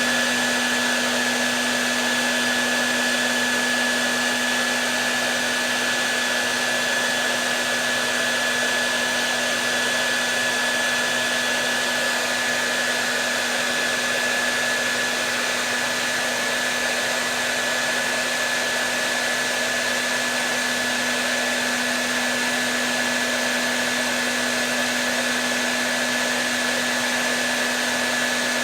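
Hair dryer running steadily: an even rush of blown air with a constant low motor hum and a thin high whine.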